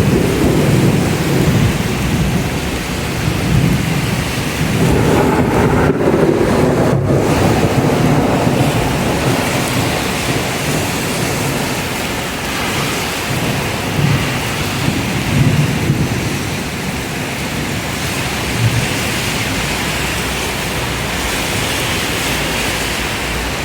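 Heavy rain pouring in a severe thunderstorm, with rolling thunder that swells about five seconds in and rumbles on, easing in the second half.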